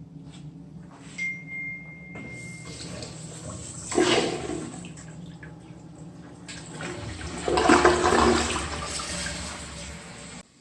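Toilet flushing: water rushes in two strong surges and then tails off. A short, steady high beep sounds just before it. The sound cuts off abruptly near the end.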